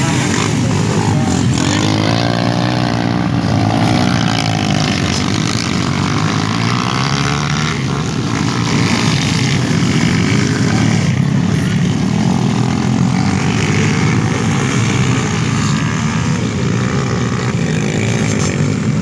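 Dirt bike engines running and revving, their pitch rising and falling again and again.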